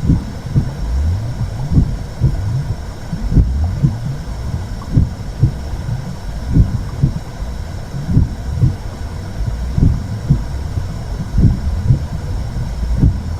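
Womb sound for soothing a baby: a muffled, steady low whooshing rumble with a slow heartbeat pulsing through it, double beats about every one and a half seconds.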